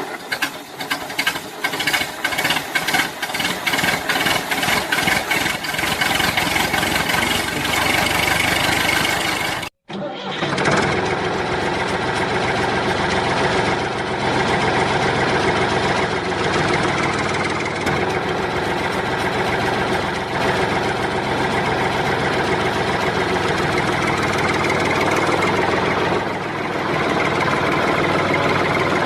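Engine-like running sound with fast, even ticking. It cuts out for an instant about ten seconds in, then resumes as a steady running noise.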